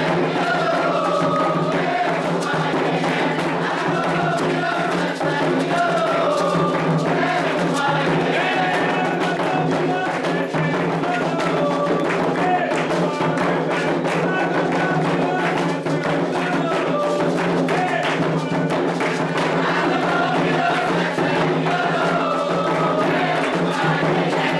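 Candomblé ritual music: a group sings a call-and-response song for Oxossi over continuous atabaque drumming and other percussion, at a steady, lively beat.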